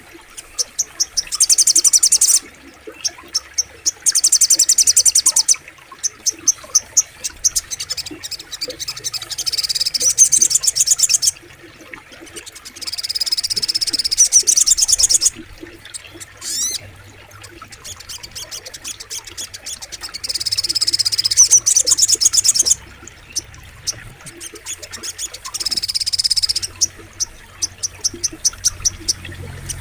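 A sunbird, the sogok ontong used as a training song for cage birds, singing in repeated bursts of rapid, high-pitched trilled notes. Each burst lasts one to three seconds, with short pauses between, over a faint steady background.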